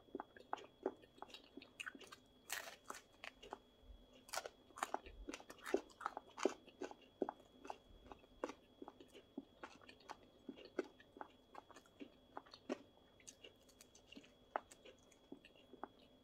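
A person biting and chewing a crispy thin-crust flatbread slice: a run of crisp crunches and crackles, with a sharp crunchy bite about two and a half seconds in, the crunching thickest over the next few seconds, then sparser chewing.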